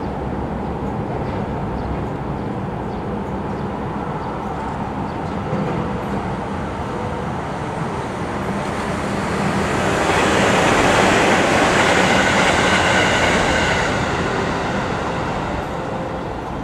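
Electric commuter train running past on a double-track main line. The rolling noise builds to its loudest about ten to fourteen seconds in, with high ringing tones over the rumble, then fades as the train moves away.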